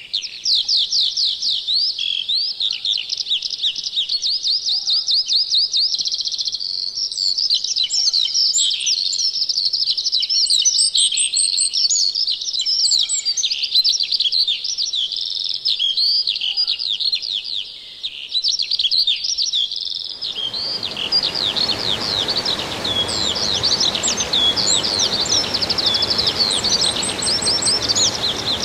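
Songbirds singing together, a dense chorus of quick trills and chirps. About twenty seconds in, a steady background hiss comes in under the song.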